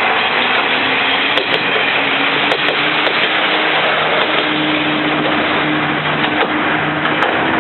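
Diesel railcar running, its engine note rising slightly as it pulls, with the wheels clicking in pairs over rail joints twice in the first few seconds.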